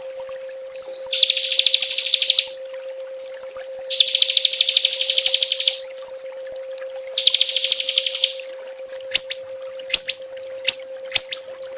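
Small songbird singing rapid-fire 'tembakan' song: three fast rattling trills of one to two seconds each, then a run of sharp, quickly falling whistled notes near the end. A steady faint hum runs underneath.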